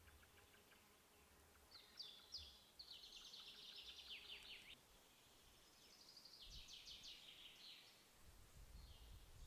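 A small songbird singing two short phrases of fast, high trills that sweep downward, the first about two seconds in and the second about six seconds in. Faint forest ambience lies underneath.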